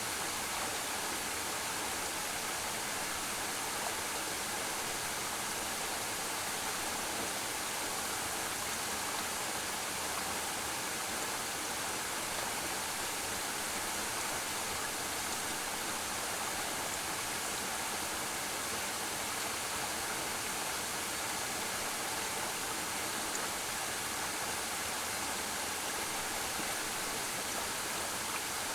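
Waterfall crashing steadily into a pool, a constant even rush of falling water with no breaks.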